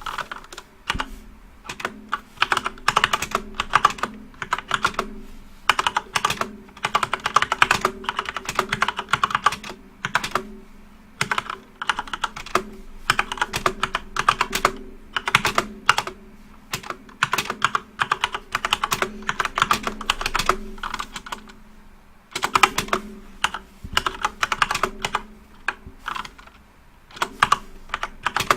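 Typing on a backlit computer keyboard: fast runs of keystrokes a few seconds long, broken by short pauses. A faint steady low hum lies underneath.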